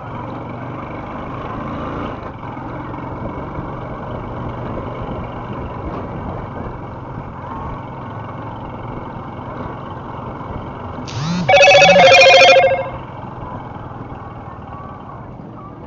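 Steady motor-traffic noise of engines and road in a jam. About two-thirds of the way through, a vehicle horn sounds loudly for about a second and a half.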